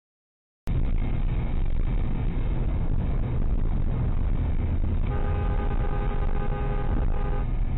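Dashcam recording of a car's steady low road and engine rumble. About five seconds in, a car horn sounds and is held for about two seconds.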